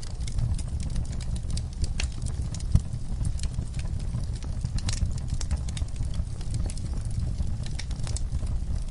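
Wood fire crackling: irregular sharp pops and snaps over a steady low rumble of the burning fire, with one louder pop a little before three seconds in.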